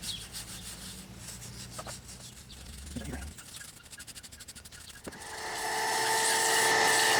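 Wire brush scrubbing the grimy casing of a Corvette C5 alternator in quick strokes. About five seconds in, a motor-driven tool starts with a steady whine that is louder than the brushing.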